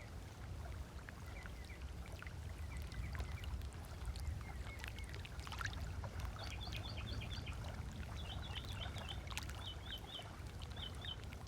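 Small waves lapping on a beach shore over a steady low rumble, with birds chirping: short notes early on, then runs of quick, higher chirps from about halfway through.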